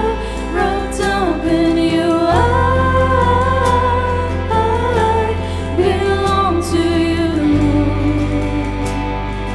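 A church worship band playing a slow praise song, with a voice singing the melody over sustained bass and keyboard chords.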